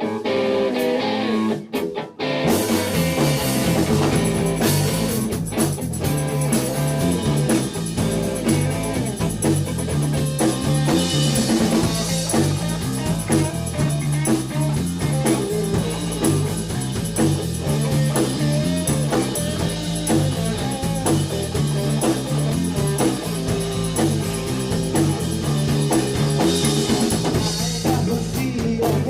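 Rock band playing live: a few guitar phrases, then drums and bass come in with the full band about two seconds in, playing a steady blues-rock groove.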